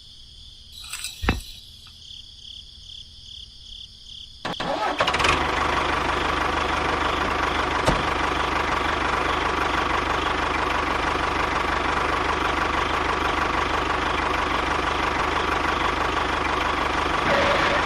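A small engine starts abruptly after a quiet stretch and then runs steadily at an even speed. A single sharp click comes in the quiet part before it starts.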